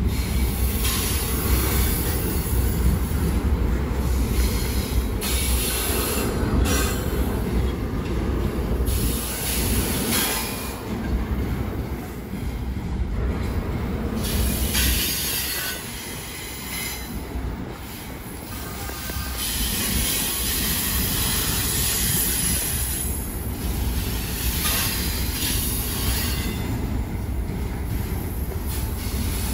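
Train cars rolling past with a steady low rumble and squealing wheels; the squeal comes and goes, and the whole sound eases off for a few seconds past the middle before picking up again.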